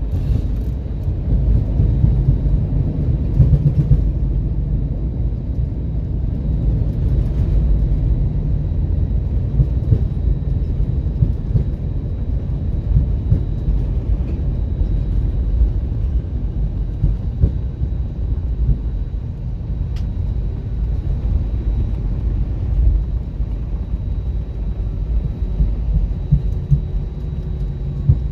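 Cabin noise inside an Airbus A320-232 during landing: a loud, steady low rumble with a rough, shuddering texture.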